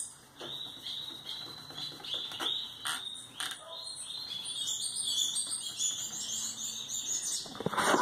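A small bird chirping and trilling in fast repeated high notes, growing busier in the second half, with a few soft taps early on and a rustle near the end.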